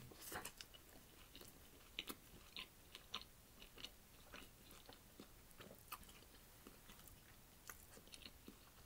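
Close-up mouth sounds of a person biting into and chewing a chicken sandwich: a cluster of soft crackles from the bite just after the start, then scattered wet clicks and smacks of chewing.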